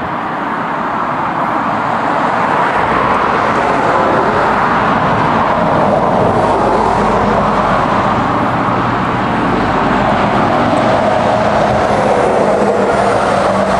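A motor vehicle running, with steady engine hum and rushing road noise that builds over the first few seconds and then holds.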